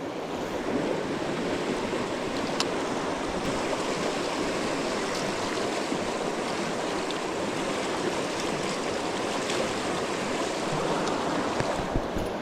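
Creek water rushing steadily, with a couple of faint ticks.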